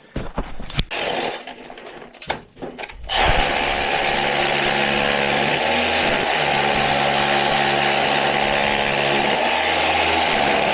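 A few knocks, then about three seconds in an SDS hammer drill with a rotary bit starts and runs steadily, hammering into an old stone-filled cement foundation wall.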